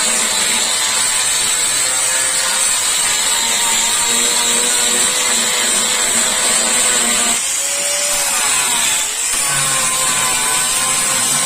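A power tool running steadily in a car body workshop, with a constant high hiss and a pitch that wavers and dips as it is worked against the panel.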